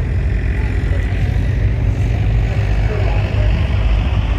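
Rally car engine running steadily at low revs, a deep, even drone.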